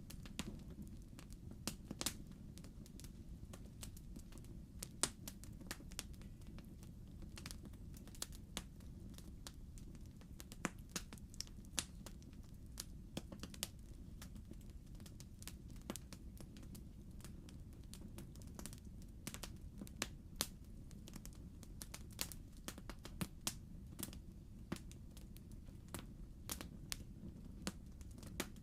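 Logs burning in a fireplace, crackling with irregular sharp pops and snaps over a low steady rumble of the fire.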